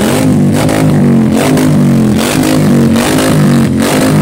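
Motorcycle engine revved up and down over and over with quick throttle blips, the exhaust note rising and falling in pitch.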